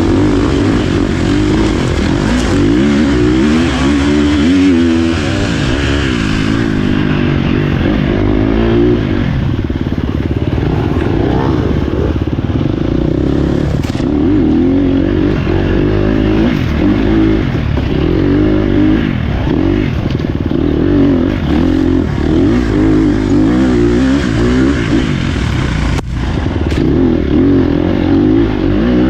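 Dirt bike engine running hard while being ridden. Its pitch rises and falls again and again as the throttle opens and closes, with a brief drop about three-quarters of the way through.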